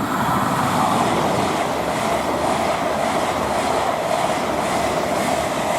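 LNER Class 800 Azuma express train passing through at speed: a loud, steady rush of wheels on rail and air, its pitch sinking slightly as it goes by.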